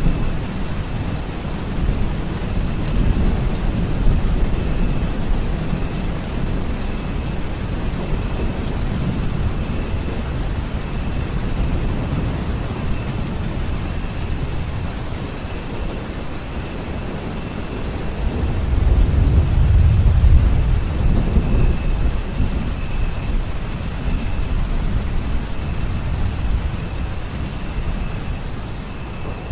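Steady rain falling, with a low thunder rumble that swells about two-thirds of the way through and then fades back.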